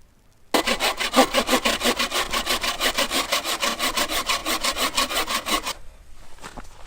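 Hand saw cutting wood in quick, even strokes, starting about half a second in and stopping abruptly about a second before the end.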